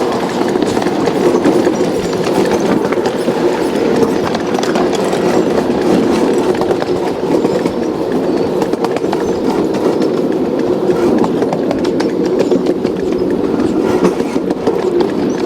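A train running steadily along the Portola Valley and Alpine Railroad's track: a continuous rumble with many irregular clicks of the wheels over the rail.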